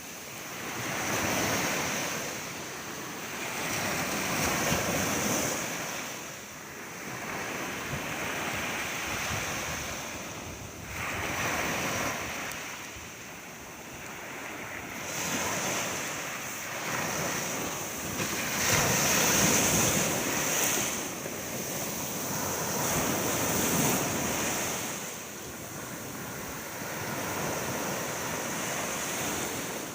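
Sea waves breaking and washing on a shore, the rush swelling and falling away every few seconds, over a steady high hiss.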